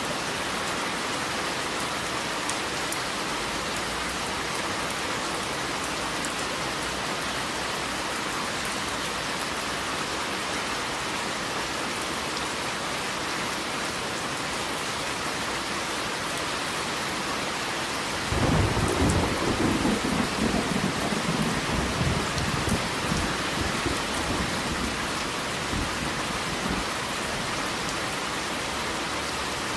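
Steady heavy rain falling, with a clap of thunder breaking about two-thirds of the way through and rumbling off over several seconds.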